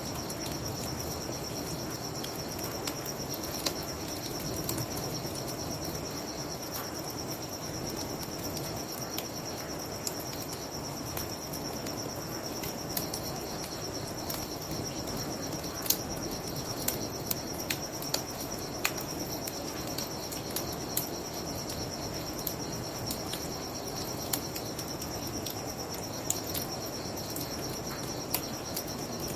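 Crickets chirping in a steady, pulsing high trill, with a wood bonfire crackling and popping in sharp clicks throughout, over a low steady rush.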